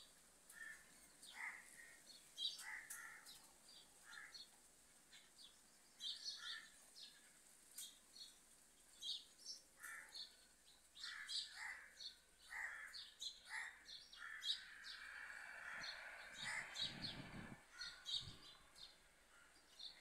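Birds calling: many short chirps and calls, one after another, with a brief low rumble near the end.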